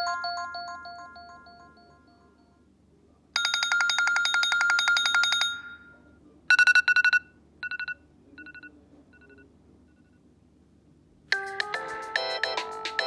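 iPhone iOS 7 ringtones and alert tones played one after another. A chime fades out, a rapid trill of bright electronic tones runs for about two seconds, then a short tone repeats about five times, each softer than the last. Near the end a new melodic ringtone begins.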